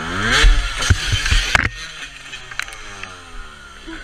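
Dirt bike engine revving hard, then a cluster of heavy thuds and knocks about one to one and a half seconds in. After that the engine note drops away and winds down.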